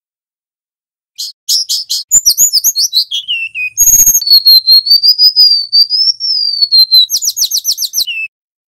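Golden-bellied gerygone (remetuk laut) singing: quick runs of high, sweet notes and a falling trill, then one long wavering whistle, then another rapid run of notes, starting about a second in and stopping shortly before the end.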